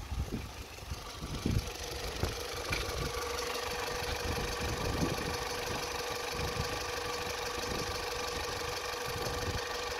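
Opel Tigra B's Z14XEP 1.4-litre four-cylinder petrol engine idling steadily. There is gusty wind on the microphone in the first couple of seconds, and the engine's even hum stands out clearly from about three seconds in.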